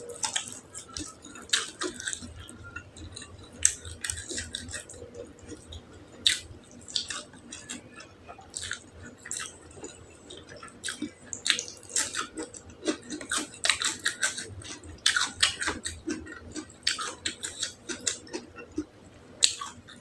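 Close-miked chewing of beef tongue, with many quick, irregular wet mouth clicks and smacks.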